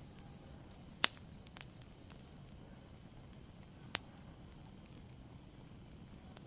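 Wood fire burning in a fireplace: a soft steady hiss with a few sharp crackling pops, the loudest about a second in and another near four seconds.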